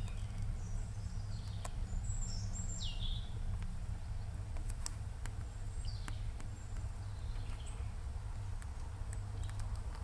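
Outdoor ambience: a steady low rumble with a few short bird calls over it, one a quick downward note about three seconds in, and scattered faint clicks.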